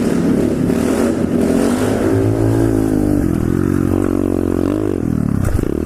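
A 125cc SSR pit bike's single-cylinder four-stroke engine running loud under the rider's throttle inside a tunnel, its pitch rising and falling as it revs, with a brief drop as the throttle is let off near the end.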